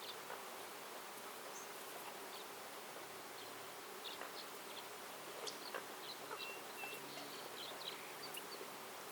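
A flying insect buzzing close by over a steady forest hiss, with scattered short bird chirps and calls that are busiest in the second half.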